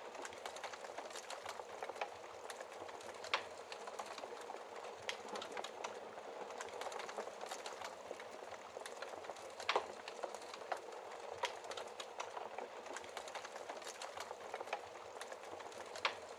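Wood fire crackling in a fireplace: a steady hiss of burning logs with irregular sharp pops and snaps, a few louder ones standing out.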